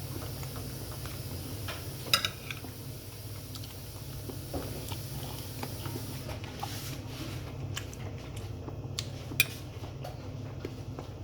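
Eating at a table: cutlery clinking against a plate, with two sharp clinks about two seconds in and near the end, and quieter scraping and chewing between them over a steady low hum.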